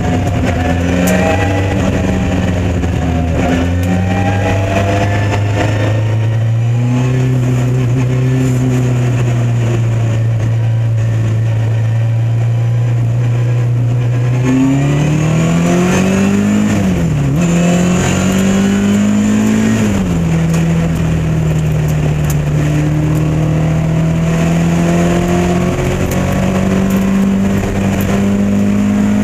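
Lotus Elan Modsports race car's engine running under load, heard on board. It mostly holds a steady note, steps up in pitch about a quarter of the way in, then climbs and falls away twice around the middle with gear changes and lifts before settling back to a steady run.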